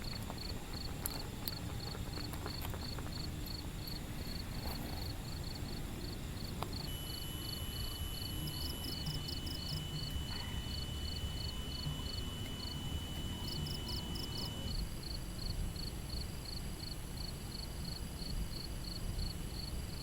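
Insects chirping in a steady rhythm of short high chirps, about two to three a second, with a second insect joining in a continuous high trill through the middle. A steady low rumble lies underneath.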